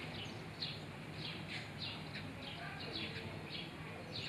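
Small birds chirping: a quick run of short, high, downward-sliding chirps, several a second, over a steady low background hum.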